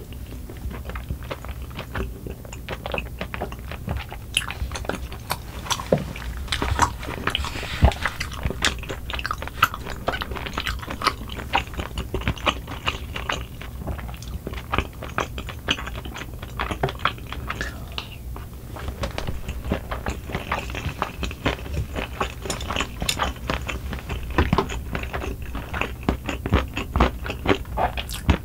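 A person chewing mouthfuls of cream-sauce tteokbokki rice cakes and fried rice close to the microphone: a steady run of small wet mouth clicks and smacks.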